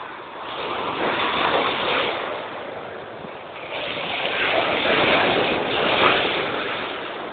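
Big sea waves surging and crashing in two long rushes of water noise, the second louder, peaking about six seconds in.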